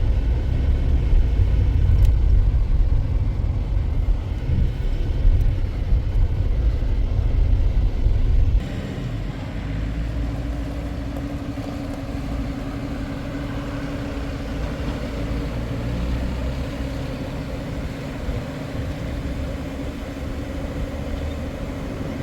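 Motor vehicle running, a steady low rumble that drops sharply in loudness about eight and a half seconds in, leaving a quieter steady hum with a held engine tone.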